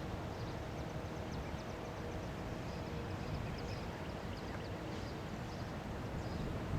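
Metra F40PH-2M diesel-electric locomotive heard as a steady low rumble with a faint hum, with short faint high chirps over it.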